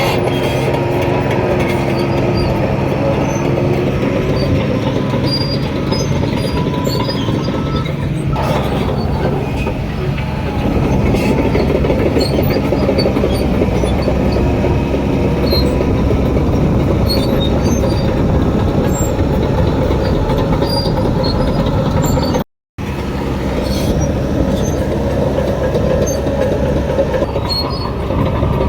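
Shantui DH17 C3 crawler bulldozer working, its diesel engine running steadily under the clatter of the steel tracks, with a short gap in the sound about three-quarters of the way through.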